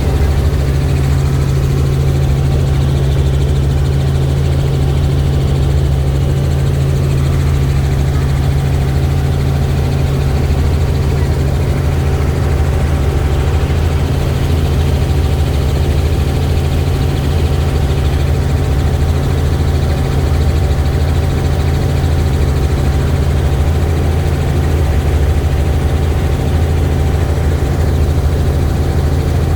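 Helicopter in flight: a steady, unchanging drone of engine and rotor with a strong low hum.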